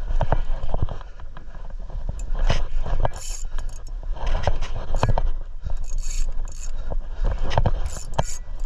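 Irregular knocks, clicks and scrapes of rod and reel handling, over a steady low rumble.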